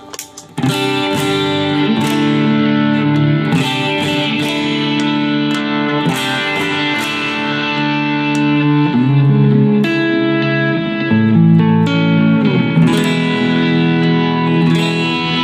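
Electric guitar played through a Joyo American Sound amp-simulator pedal, chords struck and left ringing. Playing starts about half a second in, and the chords change every second or few.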